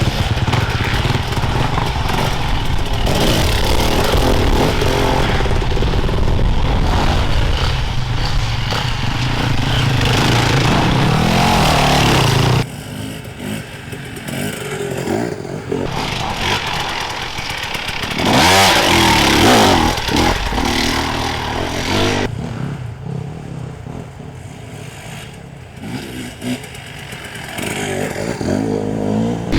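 Enduro motorcycles riding by close, engines revving up and down as they go. The sound drops suddenly about thirteen seconds in, picks up again with another bike revving past, and a further bike grows louder near the end.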